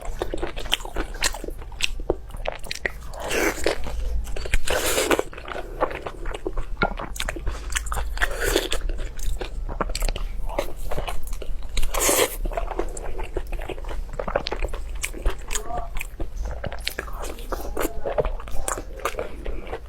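Close-miked eating: a person biting and chewing crunchy food, with a dense run of small crackling clicks and several louder crunches spaced through it.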